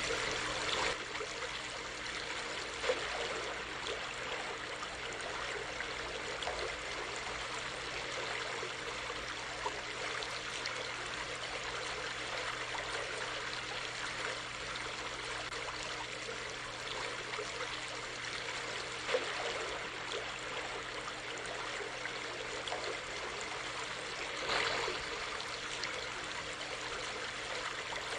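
Stream flowing: a steady rush of running water, with a few brief louder splashes or gurgles.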